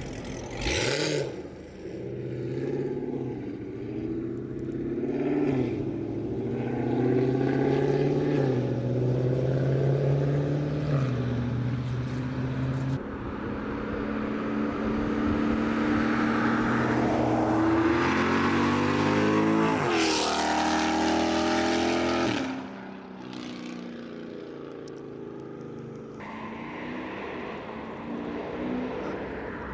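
6.4-litre HEMI V8 of a Dodge Charger Scat Pack 392 with a CORSA full exhaust accelerating hard, its pitch stepping with a gear change about 13 seconds in, then rising to its loudest about 20 seconds in before dropping away suddenly after about 22 seconds as the car passes.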